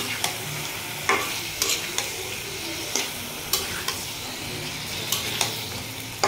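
Chicken pieces in a spice paste sizzling in a black pan while a spatula stirs and turns them, with the spatula knocking and scraping against the pan about once a second. The chicken is being fried down in the masala.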